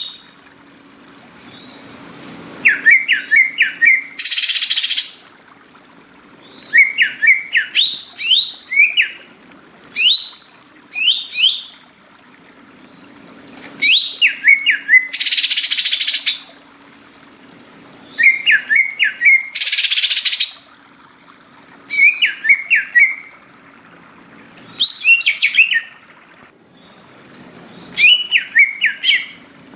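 Greater green leafbird (cucak ijo) singing: short phrases of quick, rising chirping whistles repeated every few seconds. Three times, a loud harsh rasping burst lasts about a second.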